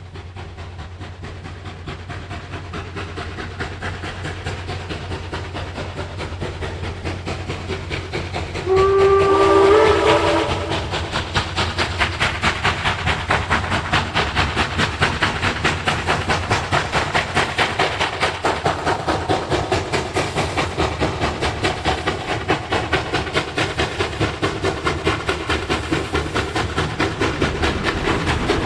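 Steam locomotive approaching and growing louder, sounding a short whistle of several tones at once about nine seconds in, then running on with a steady, rapid rhythmic beat.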